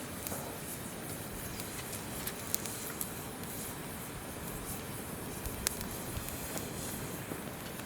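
Wood campfire crackling, with a few sharp pops about two and a half, three and nearly six seconds in, over the steady rush of a shallow river.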